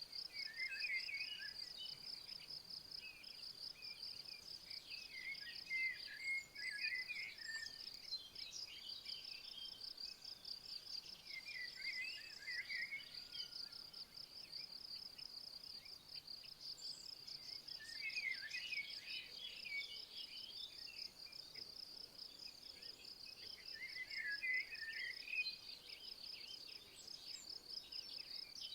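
A steady, evenly pulsing insect trill runs throughout. A songbird sings short phrases every few seconds over it.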